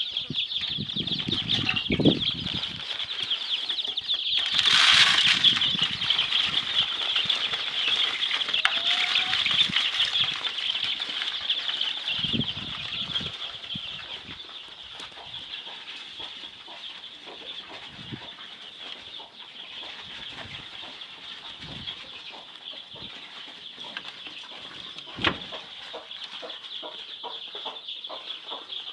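A brood of chicks peeping continuously, many high cheeps overlapping into a steady chorus. There is a brief louder noisy burst about five seconds in.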